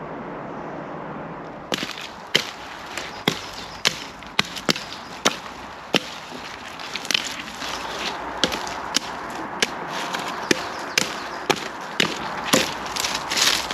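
A steady rushing noise cuts off about two seconds in. It gives way to a run of sharp, irregular wooden knocks and cracks, one or two a second: wood being chopped or split with a hand tool such as a hatchet.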